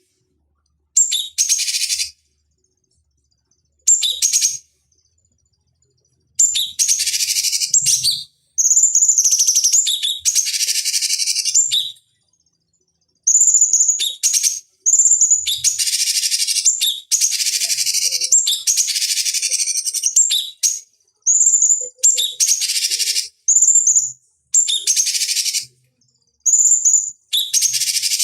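Cucak cungkok singing: high-pitched song phrases lasting about one to several seconds, many opening with a clear whistled note followed by a dense, rapid chatter. The phrases are separated by short, completely silent gaps.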